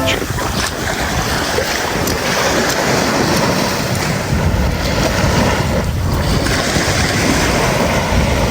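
Sea surf with strong wind buffeting the microphone: a loud, steady rushing noise, heaviest in the low end.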